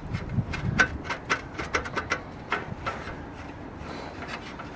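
Loose sheet-metal exhaust heat shield on a 2004 Nissan Sentra clinking in a quick, irregular run of light metallic taps for about three seconds, then going quiet. This is the typical rattle of a heat shield that has slipped on the pipe.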